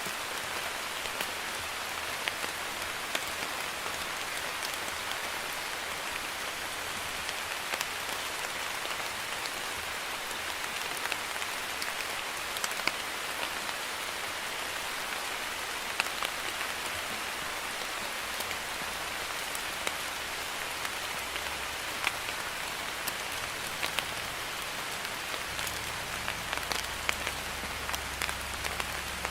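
Drizzle falling on a surface: a steady, even hiss of light rain with scattered sharp drop ticks.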